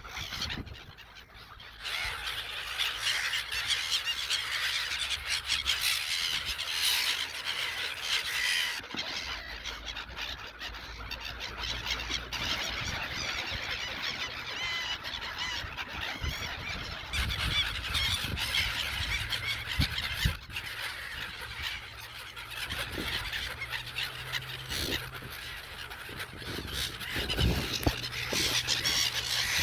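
A flock of gulls calling all at once, a dense, continuous chorus of overlapping cries.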